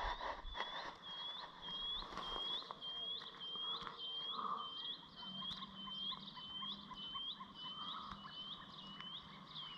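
A small bird calling a steady, evenly spaced series of short, high chirps, each rising at the end, about two a second.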